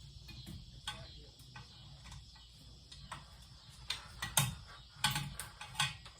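Irregular small clicks and light knocks from ceiling fan parts and screws being handled, with a few sharper clicks in the second half.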